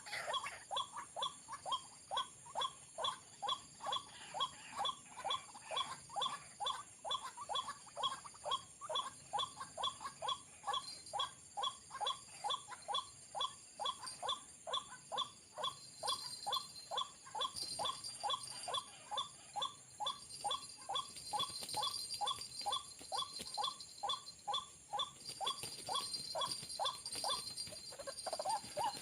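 White-breasted waterhen calling: a long, even run of short, falling notes, about two to three a second, with no break. From about halfway in, a thin, high, steady insect buzz sounds beneath it.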